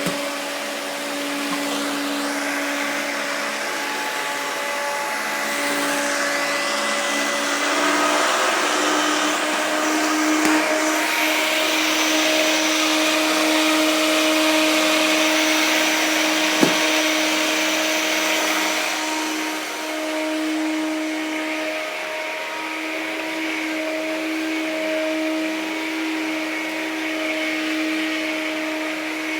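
1984 Hoover Turbopower 1 U2198 upright vacuum cleaner running, a steady motor hum under rushing air. The airflow grows louder for a stretch in the middle. There are two small knocks.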